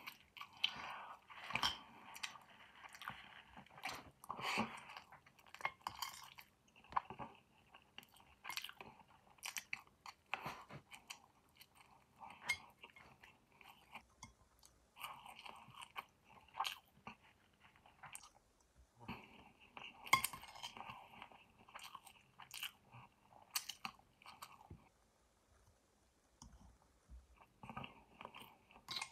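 Close-miked chewing and biting of roast chicken and rice, with crunches and sharp clicks of the mouth, coming in bursts with brief pauses between mouthfuls.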